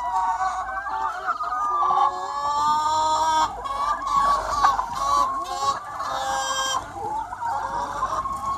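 A large free-range flock of chickens clucking and calling over one another in a constant, overlapping chorus.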